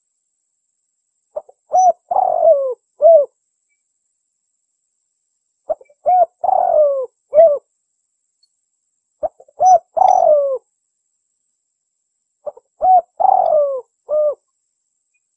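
Spotted dove (tekukur) cooing: four phrases about three and a half seconds apart, each a couple of short coos, then a longer coo that falls in pitch, then a last short coo. It is the song of a contest-winning bird, used as a lure call to draw in wild doves.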